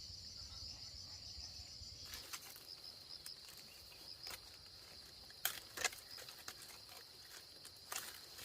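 Insects chirring steadily at a high pitch, with a few sharp clicks or snaps; the loudest two come about five and a half and six seconds in.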